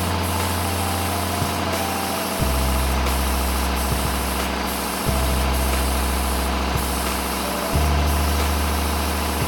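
A steady motor or engine hum under a constant hiss. The low hum changes abruptly about every two and a half seconds, at about 2.4, 5.1 and 7.7 s.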